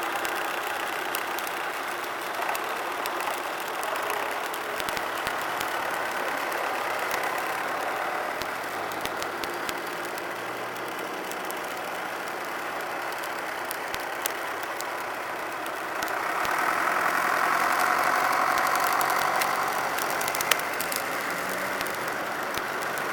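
Tractor engines running steadily, growing louder for a few seconds near the end as one comes closer.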